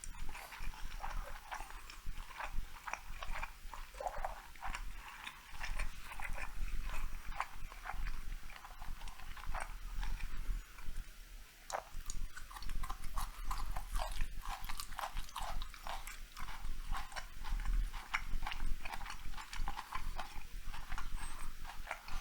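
Close-miked chewing of sushi rolls: a continuous run of short, wet mouth clicks and smacks, several a second.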